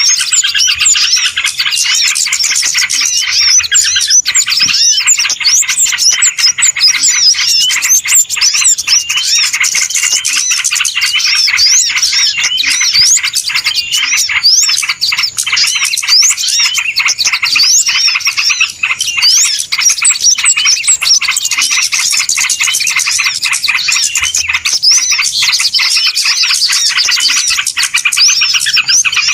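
Bird-lure (pikat) recording of a noisy flock: many small birds chirping and twittering at once in a dense, unbroken clamour of quick high calls, the kind played to draw wild birds in.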